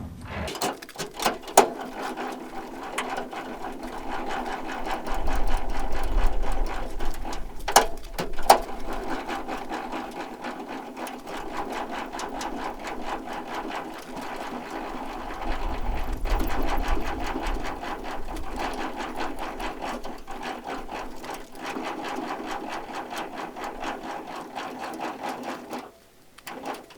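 Flatbed semi-trailer landing gear being cranked up by hand: the crank gearbox gives a fast, steady clicking rattle, with two louder knocks about eight seconds in, and stops about a second before the end.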